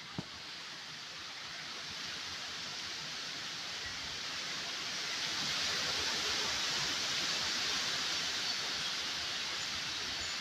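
Steady rushing hiss of wind and rain outdoors, swelling louder about four seconds in and holding there. One sharp click near the start.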